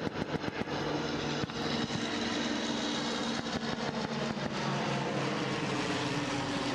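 Fairchild C-123 Provider transport plane flying past, its engines giving a steady drone that pulses rapidly for the first second or so.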